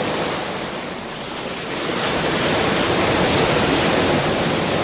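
Ocean surf: a continuous wash of waves that eases off about a second in, then swells as a wave rolls in and breaks.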